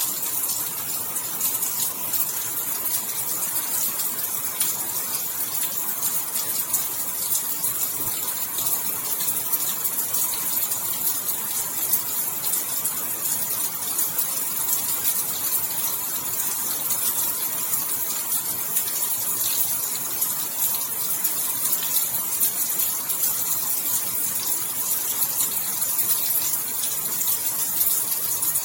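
Steady rainfall: an even, high hiss dense with countless tiny drop ticks, unchanging throughout.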